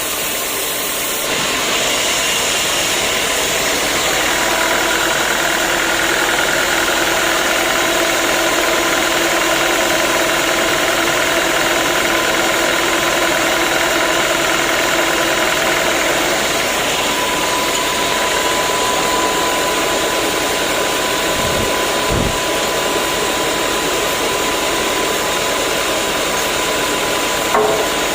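Sawmill machinery running: a steady, loud mechanical noise with faint held whines, getting louder about a second in.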